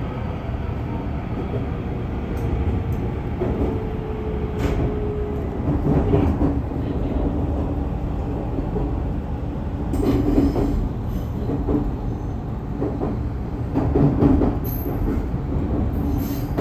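Electric local train running through a station's track junction, heard from inside the car: a steady rumble from the wheels and running gear, with clicks as the wheels cross rail joints and switches and a faint hum that shifts in pitch.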